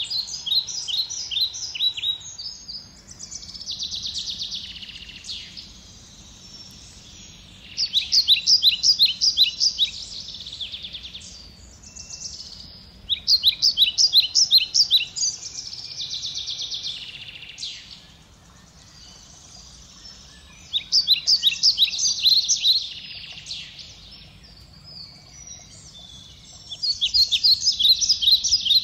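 A songbird singing. Loud phrases of rapid, high, repeated notes about two seconds long come every five or six seconds, with softer warbling between them.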